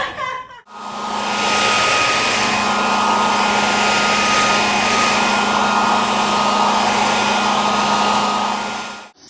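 Grooming blow dryer running steadily at full blast, a loud even rush of air over a steady hum. It comes on cleanly under a second in and cuts off just before the end.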